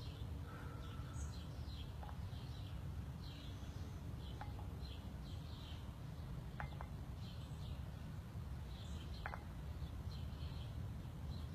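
Faint outdoor birdsong: small birds chirping in short repeated notes throughout, over a steady low rumble.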